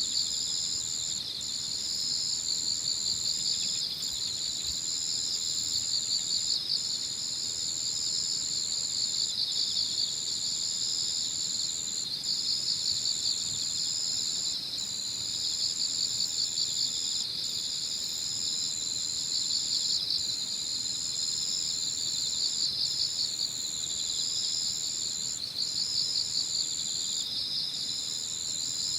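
Evening chorus of singing autumn insects such as crickets. One high continuous trill breaks off briefly every couple of seconds, over a lower layer of pulsing chirps.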